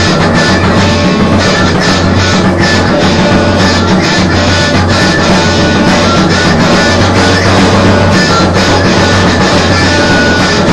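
Alternative rock instrumental with distorted electric guitar and drum kit playing at a steady loud level.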